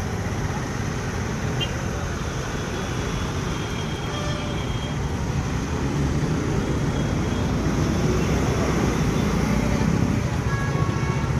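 Road traffic noise: a steady rumble of passing vehicles that grows a little louder in the second half.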